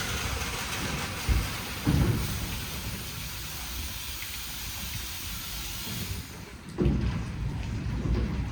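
WashTec SoftCare² Pro rollover car wash working on a car: a steady low rumble of water and machinery, with two thumps early on. It eases off near the six-second mark, then comes back louder.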